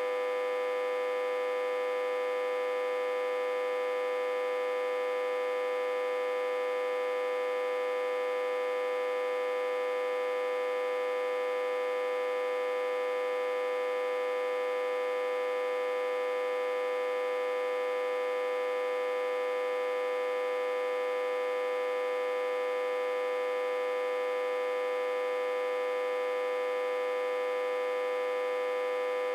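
Autotransformer humming, reverse-connected to a step-down transformer and energised at about 60–80 V. The hum is a steady, unchanging electrical tone with one strong note and many overtones above it.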